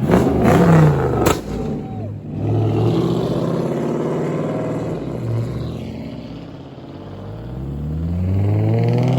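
Car engines revving hard. A loud rev with a sharp crack comes in the first second and a half, with the engine pitch dropping away. Then an engine runs at a steady pitch, and near the end one accelerates with a steadily rising pitch.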